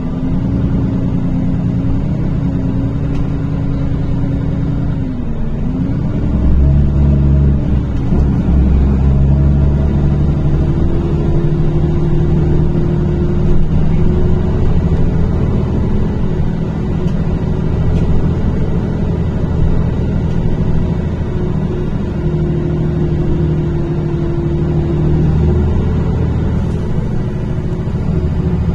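NefAZ-5299 city bus heard from inside the cabin, its engine running under way with a steady low rumble. The engine note drops about five seconds in, then grows louder and climbs slowly as the bus pulls ahead, before levelling off.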